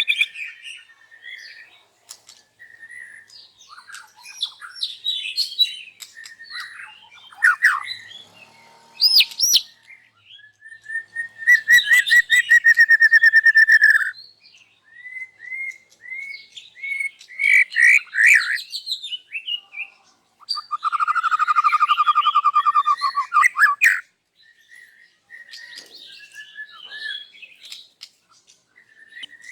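White-rumped shama singing loudly in a varied string of whistled phrases, chips and slurred notes, its repertoire of learned songs. Two long, rapid trills stand out, one near the middle and one later on.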